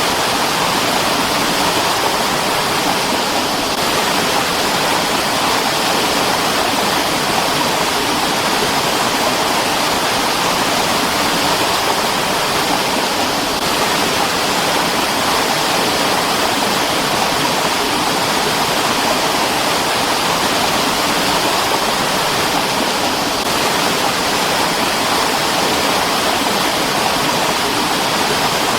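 Mountain stream rushing steadily over rocks, an even, unbroken flow of water.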